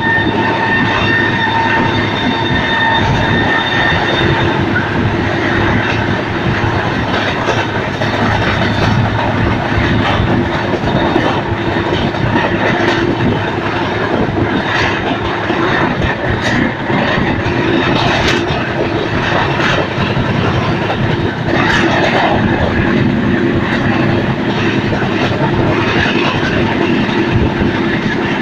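Moving passenger train running at speed: a loud, steady rumble of wheels on track with irregular clicks and knocks. A thin high tone sounds over it for the first four seconds.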